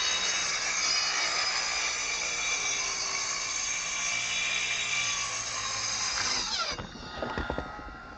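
Circular saw running steadily, cutting plywood sheathing, then its blade winding down with a falling whine about seven seconds in, followed by a few knocks.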